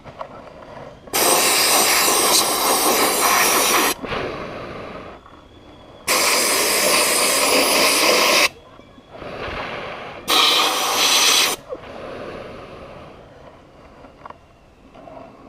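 Hand-held sandblast gun blasting glass bead media with compressed air, firing in three long bursts of hiss: about three seconds, then two and a half, then a shorter one. A fainter hiss runs between the bursts.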